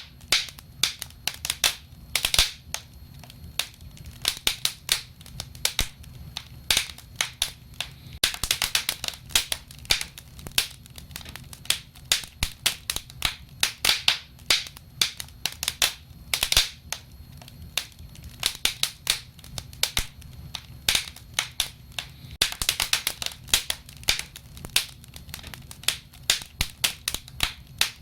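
Wood fire crackling: many sharp pops and snaps, coming in dense clusters, over a low steady rumble of the flames.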